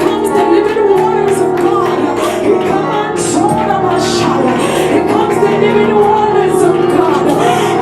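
Church worship music: held keyboard chords under voices singing.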